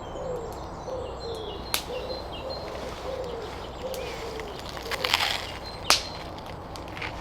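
Small birds chirping, short high calls scattered throughout, over a low repeated note about twice a second. Two sharp clicks and a brief rustle stand out, the loudest of them about two-thirds of the way through.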